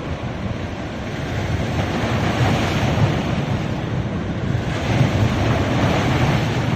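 Sea waves breaking and washing up a beach, surging louder twice, about two seconds in and again about five seconds in, with wind rumbling on the microphone.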